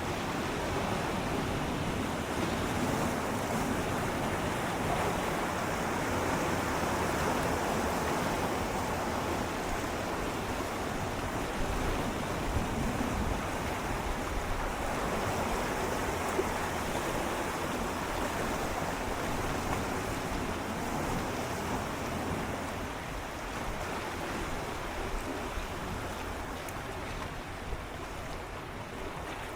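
Gentle sea waves swirling and lapping against shoreline rocks, a steady wash of water that swells slightly and then eases off towards the end.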